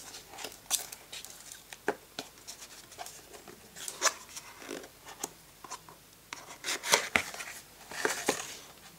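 Hands handling a phone's retail box and its packaging: scattered taps, clicks and short rustles, with a few sharper knocks about two, four and seven seconds in.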